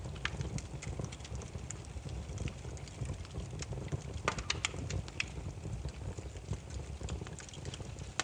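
Burning firewood crackling: irregular sharp pops and snaps over a low steady rumble, with a quick cluster of pops a little past halfway.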